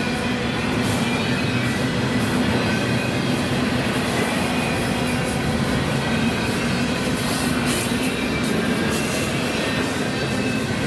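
A train rolling past at close range: a steady rumble of railcars on the rails, with faint wheel squeal.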